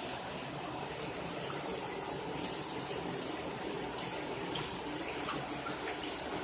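Steady rain pouring down, an even rush of water with a few faint splashes of drops.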